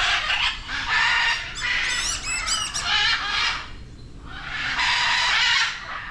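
Several birds squawking and chirping in repeated bursts, with a run of quick wavering chirps about two seconds in and a short lull near four seconds.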